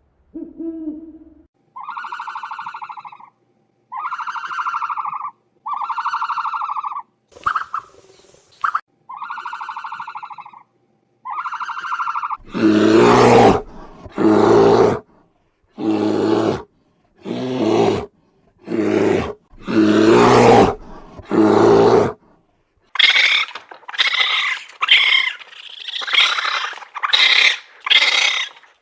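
A run of edited animal calls. First come about six even, pitched calls, each a little over a second long. From about halfway there are about eight loud, rough roars of about a second each, then near the end a quicker series of shorter, higher calls.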